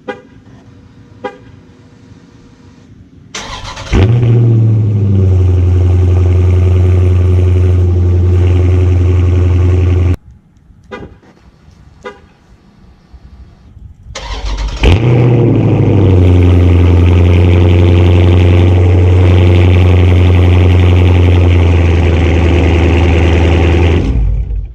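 2018 Dodge Charger Scat Pack's 6.4-litre HEMI V8 with its mid muffler deleted, started twice: each time it catches with a loud burst, the revs flare and drop, and it settles to a steady, loud, deep idle. The first run is shut off abruptly after about six seconds.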